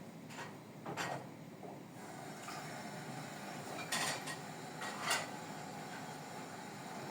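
Kitchenware being handled: about four separate clinks and knocks of dishes or utensils, with a faint steady tone coming in about two seconds in.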